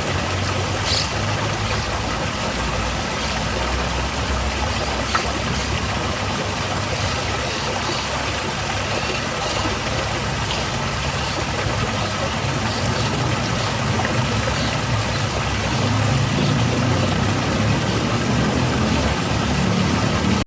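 Small garden waterfall splashing steadily, an even rushing noise with a low rumble underneath that swells slightly near the end. A few faint, short high chirps come through over it.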